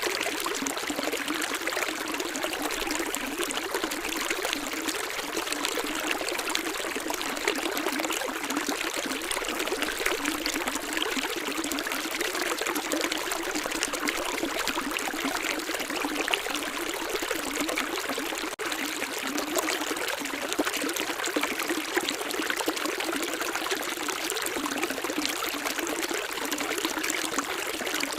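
Running water in a stream, splashing and trickling steadily, with no deep rumble.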